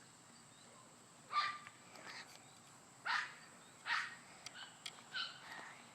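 A dog barking several times, short single barks about a second or so apart.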